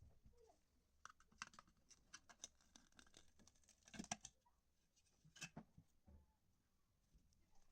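Faint scratching and clicking of small handling noises, a run of quick strokes with the sharpest clicks about four seconds in and another pair about a second and a half later.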